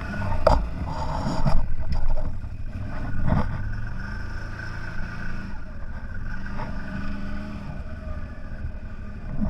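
CFMOTO 1000 off-road vehicle's engine running steadily while riding, with a few knocks and thumps in the first second and a half and again about three seconds in.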